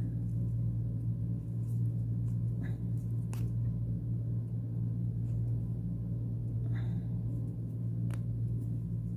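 A steady low hum, with a few faint light clicks now and then.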